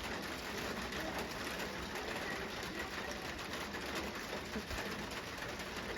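Steady rain falling during a thunderstorm: an even, unbroken hiss.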